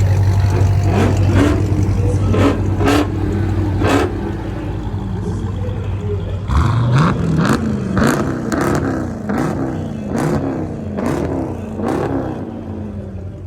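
A car engine idling with a steady low drone, then revved in a quick series of short blips from about six and a half seconds in, with sharp cracks among the revs.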